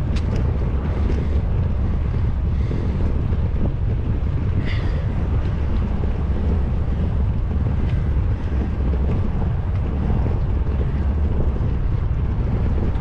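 Wind buffeting the microphone of a bike-mounted action camera while riding, a steady low rumble. A brief high squeak sounds about five seconds in.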